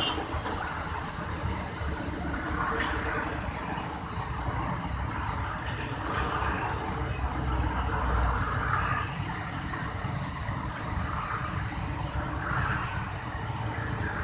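Excavator's diesel engine running steadily with a low rumble as the machine works, loading muddy soil into a dump truck.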